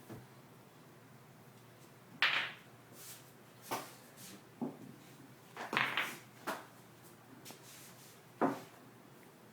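Pool balls knocking against each other and the cushions as a cat bats them around a pool table, in irregular sharp clacks about seven times, the loudest about two seconds in and near the end.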